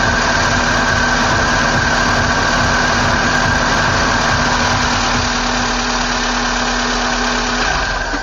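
Car engine idling steadily under an open hood, with a steady hum over it. Near the end the hum stops and the overall sound drops.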